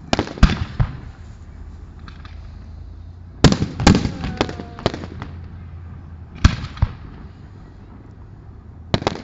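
Fireworks bursting: a group of sharp bangs and crackles right at the start, a rapid cluster about three and a half seconds in, two more bangs at about six and a half seconds, and another pair near the end.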